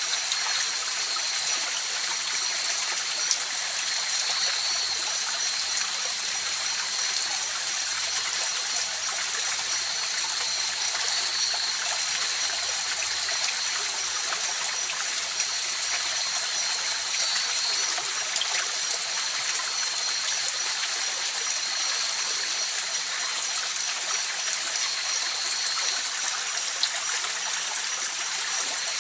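A river flowing: an even, unbroken rush of water, mostly high and hissy, with a thin steady high-pitched tone running over it.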